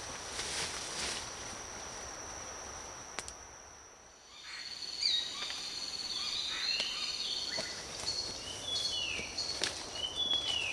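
Rainforest ambience: a steady high insect drone throughout, with birds chirping and whistling in short gliding calls from about four seconds in, and a few sharp clicks.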